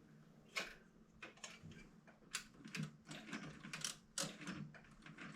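Quiet, irregular light mechanical clicks and taps, a dozen or so scattered unevenly.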